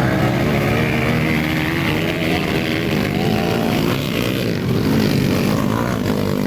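Several motocross dirt bikes racing, their engines revving up and down and overlapping one another.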